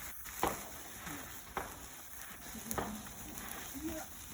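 Handheld sparkler fizzing steadily, with four sharp pops about a second apart.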